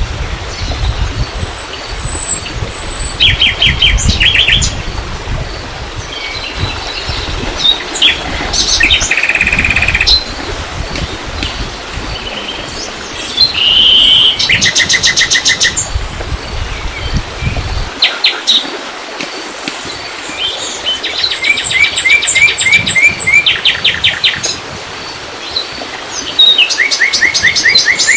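Several songbirds singing in the open, with repeated quick trills and chirps coming every few seconds. A low rumble runs underneath and cuts off suddenly about two-thirds of the way through.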